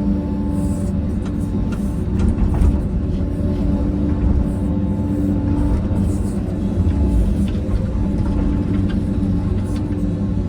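Diesel engine of a heavy earthmoving machine running steadily, with faint scattered clicks and knocks.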